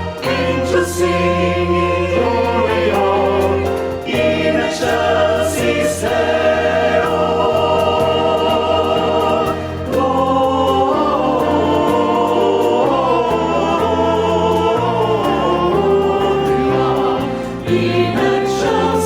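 A choir singing in several parts over instrumental accompaniment with held low bass notes.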